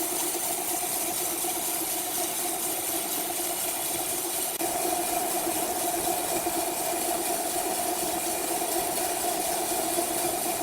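Sawmill machinery running steadily: a continuous mechanical drone with a hiss on top, a little louder from about four and a half seconds in.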